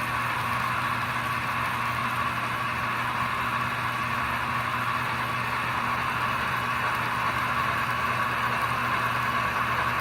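American Flyer K5 Pacific S-gauge model steam locomotive running steadily along the track, making a continuous, even hum with no changes.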